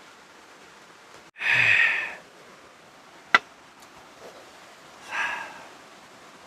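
Steady hiss of rain, with a person's loud breathy exhale or sigh about a second and a half in, a single sharp click near the middle, and a second, softer breath a few seconds later.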